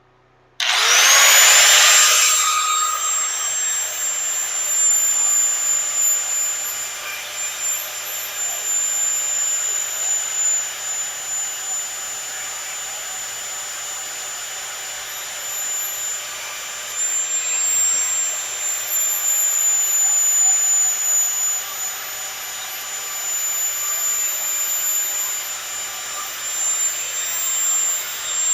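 Angle grinder with a flap disc spinning up about half a second in, its pitch gliding up to a steady high whine. It then runs, louder and softer by turns, as it grinds the uneven cut end of stainless steel exhaust tubing.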